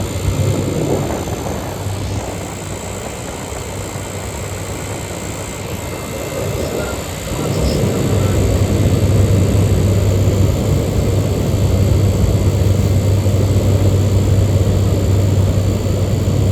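Large window air conditioner running: Matsushita rotary compressor and condenser fan giving a steady low hum with fan noise. It grows louder and steadier about seven seconds in.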